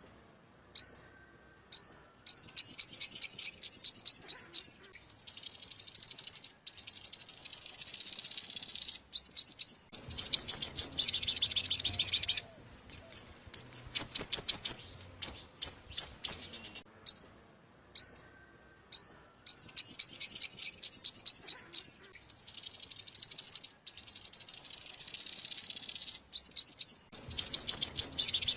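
Sunbird song: quick runs of high, thin chips alternating with longer fast trills, repeated over and over as a looped recording.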